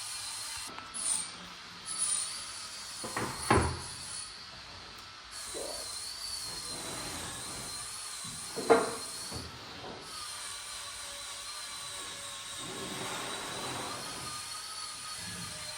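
Several separate knocks and clunks of a part being handled during car work, the loudest about three and a half and about nine seconds in, over a steady faint high whine.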